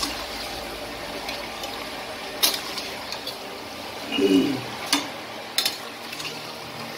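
Marinated chicken pieces frying in masala in a pan, a steady sizzle, with a spoon clinking against the pan a few times as it is stirred. A brief vocal sound a little past the middle.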